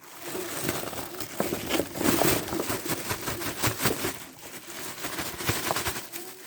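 Handling noise: irregular rustling and crinkling with many small clicks and crackles.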